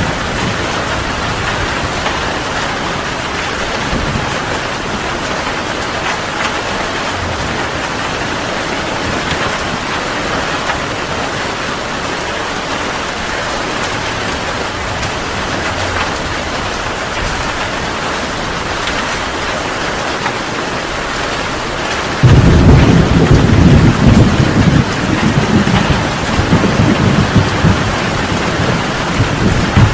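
Heavy rain falling steadily. About 22 seconds in, a loud roll of thunder breaks in suddenly and rumbles on in swells for several seconds.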